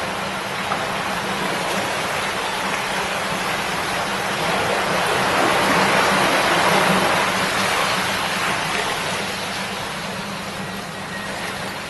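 River water babbling over stones, a steady rushing that swells louder in the middle and eases off toward the end.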